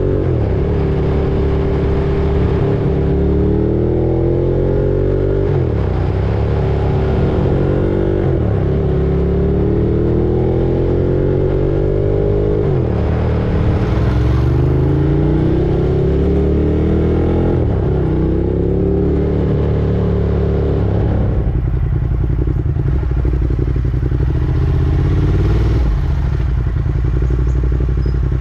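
Ducati Monster 1200's V-twin engine under way. Its pitch climbs and drops sharply several times as it changes up through the gears, then holds fairly steady near the end.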